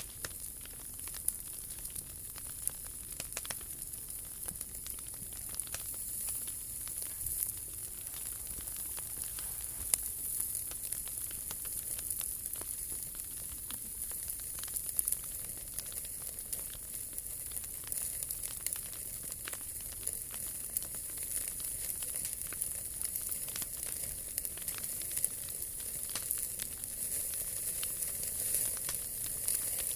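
Wood fire burning in a POMOLY T-Brick Ultra, a steady hiss with frequent small crackles and occasional sharper pops.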